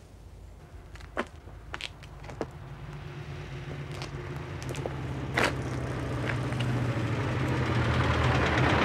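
A vintage open car's engine approaching and growing steadily louder as it draws up, with a few sharp clicks in the first half.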